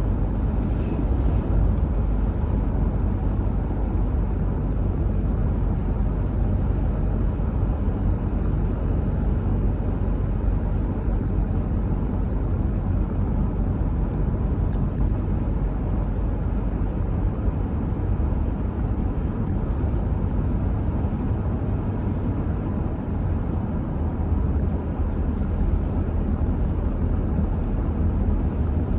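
Car driving at a steady speed: an even rumble of road and engine noise that holds level throughout.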